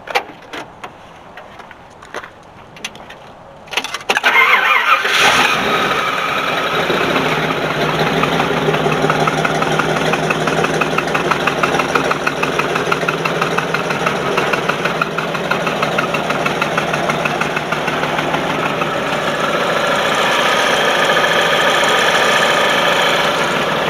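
A few light clicks and knocks, then about four seconds in a Ford 460 big-block V8 cranks briefly, catches and runs steadily at idle.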